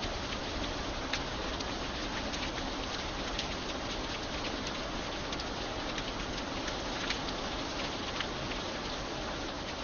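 Steady rain falling, with scattered sharper single drops ticking out over the steady patter.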